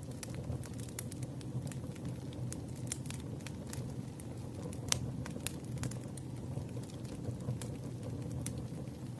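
Campfire crackling: a steady low rumble of burning wood with irregular sharp pops and snaps, one louder pop about five seconds in.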